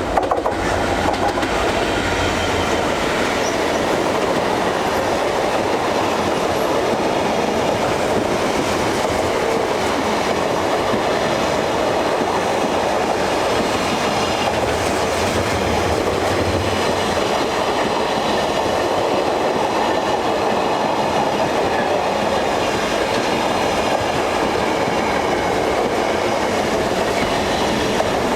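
Intermodal container freight train, hauled by a Class 66 diesel locomotive, running through the station: a steady, loud rumble and clatter of wagon wheels on the rails that builds up right at the start and keeps on unbroken.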